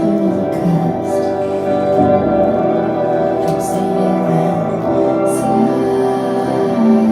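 Live rock band playing, with sustained guitar chords, a melodic line and cymbal crashes, heard as an audience recording.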